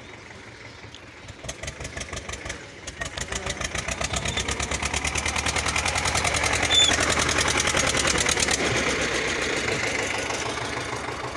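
Tractor engine running with a rapid, even chugging knock. It starts faint about a second in, grows louder and quicker, and eases slightly near the end.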